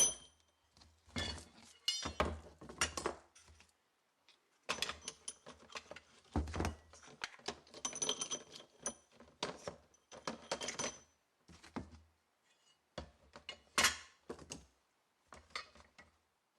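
Metal parts being handled and worked: irregular bursts of clicks, clinks and knocks, some with a short metallic ring, separated by brief pauses. The loudest clank comes near the end.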